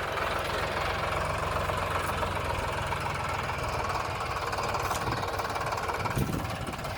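Tractor's diesel engine running steadily with a rapid, even knock.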